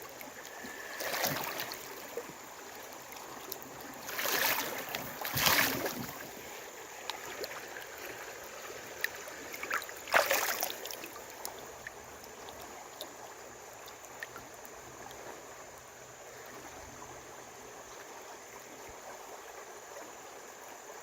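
Creek water running steadily, with a few short, louder splashes and sloshes about a second in, twice between four and six seconds in, and again about ten seconds in.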